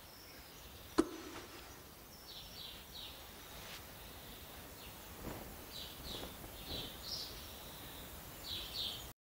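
Faint room ambience with short, high bird chirps coming again and again, a single sharp click about a second in, and a few soft knocks later on.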